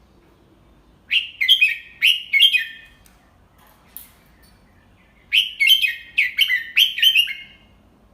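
Red-whiskered bulbul singing two quick phrases of bright chirped whistles, the second phrase a little longer than the first, with a faint tick between them. It is a clear, slowly delivered song of the kind played as a model for young bulbuls to copy.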